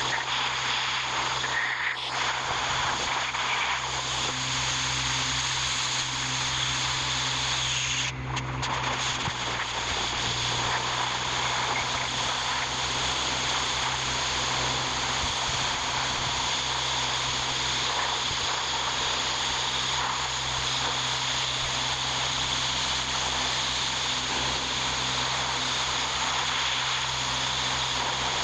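A machine running steadily with a strong hiss and a low hum, briefly dropping about eight seconds in.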